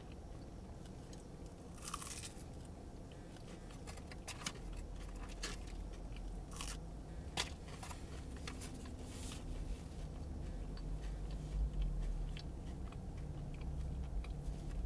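Close-up crunchy biting and chewing of deep-fried hushpuppies, with sharp crackles scattered through the first ten seconds or so. A low rumble sits underneath from about four seconds in.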